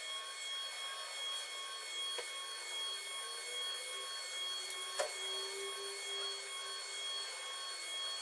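A machine running steadily with a high whine of several steady tones over a hiss, and a faint lower tone that drifts slowly in pitch. A single sharp click about halfway through.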